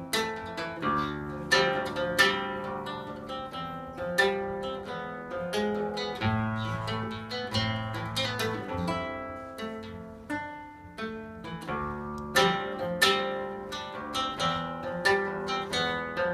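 Acoustic guitar picked in an instrumental passage, with many sharply plucked notes and chords ringing on.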